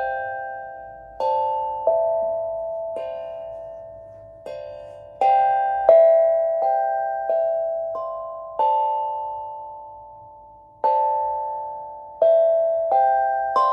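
A slow, free-paced melody of single ringing notes on a tuned instrument, each plucked or struck every second or two at a different pitch and fading slowly before the next.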